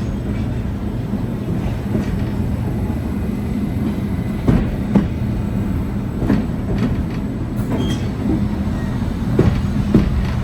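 Heritage steam train rolling along the track: a steady rumble of the wheels, with irregular sharp knocks and clicks over rail joints in the second half.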